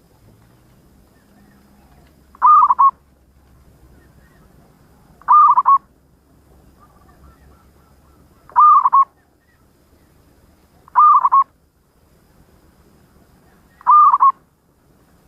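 Zebra dove (perkutut) cooing: five short, clear coos, one every two to three seconds.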